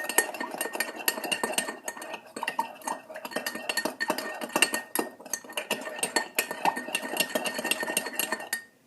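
Metal spoon stirring sugar into water in a cup, clinking rapidly and continuously against the cup's sides with a ringing tone. It stops suddenly near the end.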